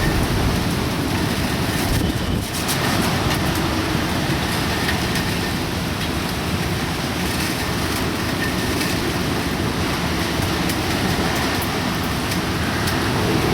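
Typhoon rain and wind: a loud, steady rush of heavy rain with scattered sharp spatters, dipping briefly about two and a half seconds in.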